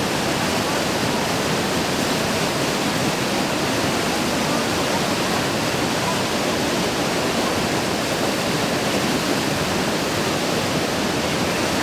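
Whitewater rapids of an artificial whitewater course rushing steadily, an even roar of churning water with no breaks.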